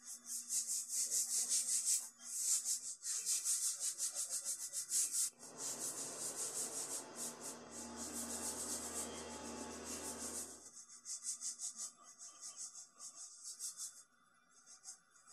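A paintbrush's bristles stroking pre-stain conditioner onto bare pine plywood, a quick scratchy back-and-forth of several strokes a second. A faint low hum runs underneath for a few seconds in the middle.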